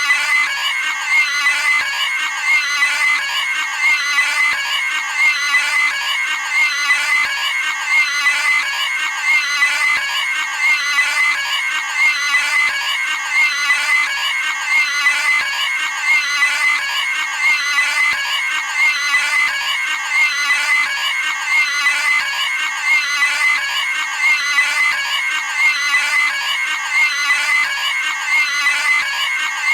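Cartoon pig squealing and screaming, a high-pitched shriek repeated over and over at a steady rhythm as a looped sound effect.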